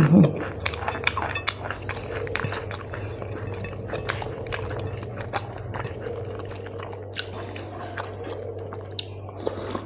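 Close-miked eating sounds: wet chewing and lip-smacking clicks, with fingers squishing and mixing rice on a plate. Irregular small clicks run throughout. At the very start comes the tail of a short falling hummed 'mm'.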